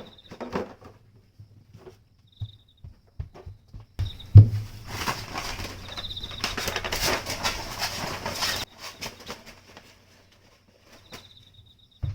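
Vacuum cleaner running for about four and a half seconds, starting with a loud thump and cutting off suddenly, with scattered knocks and clicks of handling before and after.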